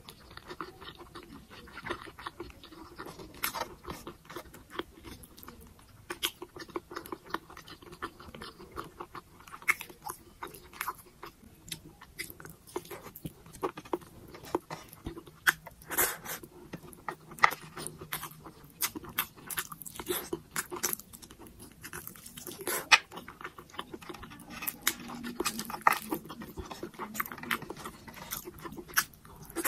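Close-up chewing of pork belly adobo and rice, with many short irregular clicks from the mouth and fingers and a few louder ones.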